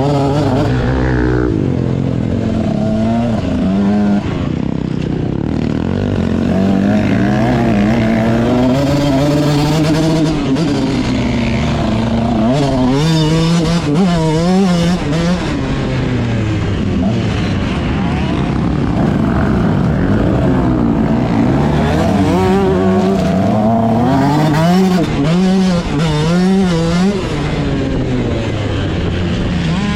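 Motocross dirt bike engine revving hard and backing off again and again, its pitch rising and falling every second or two as it is ridden round a track.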